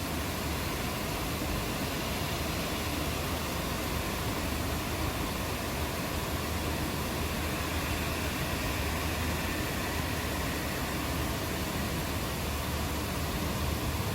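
Steady rain falling, an even hiss with a low rumble underneath and no thunderclap.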